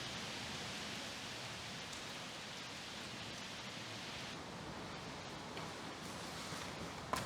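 Steady hiss of light rain falling, with a single click near the end.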